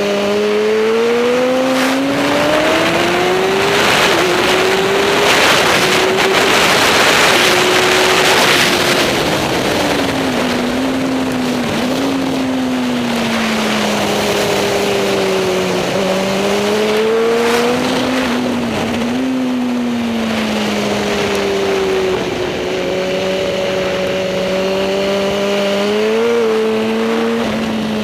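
Racing superbike engine at race pace, its note rising and falling as the rider accelerates, shifts gears and slows. It gets louder and noisier between about four and nine seconds in.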